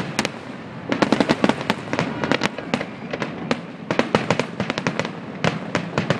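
Fireworks grand finale: rapid, irregular volleys of shell bursts and sharp crackling reports, many per second, densest about a second in and again from about four seconds on.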